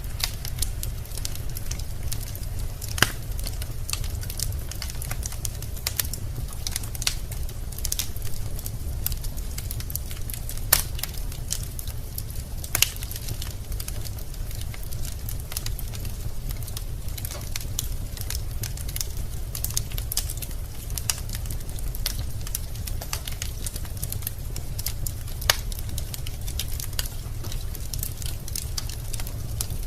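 Wood fire crackling in a fireplace, with irregular sharp pops from the burning logs over a steady low rumble of the flames. The loudest pops come about 3, 11, 13 and 25 seconds in.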